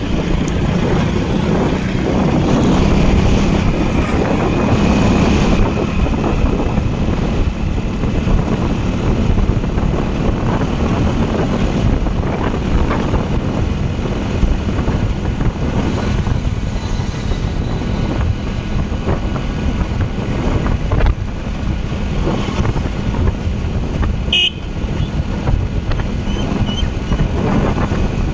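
Steady wind and road noise from a moving bike ride, with a low vehicle hum throughout and a brief high beep about 24 seconds in.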